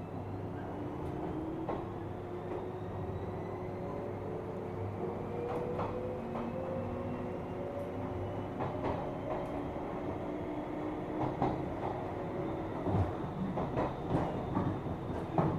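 Running sound inside a 455-series EMU motor car: the MT54 traction motors and their gearing whine, several tones rising steadily in pitch as the train gathers speed, over a low rumble. In the second half, sharp wheel clicks over rail joints come more often and louder.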